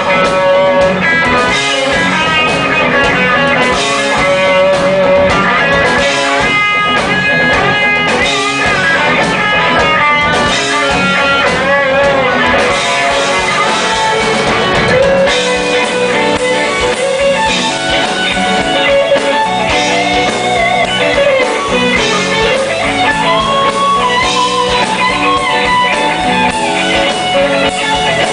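Rock band playing live, an electric guitar lead with bending notes over the band's steady backing.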